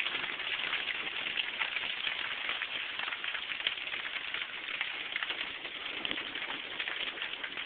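Rain falling in a thunderstorm: a steady hiss with fine crackling.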